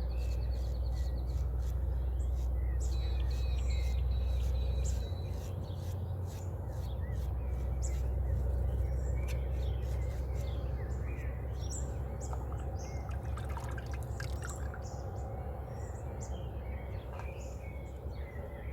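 Dawn chorus of wild birds chirping and trilling, many short calls overlapping, over a steady low rumble that eases about five seconds in.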